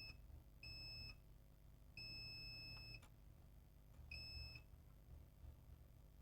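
Multimeter continuity beeper sounding in short, irregular high-pitched beeps of different lengths, one of them about a second long, as the probes make contact: the beep signals a short to ground on the board.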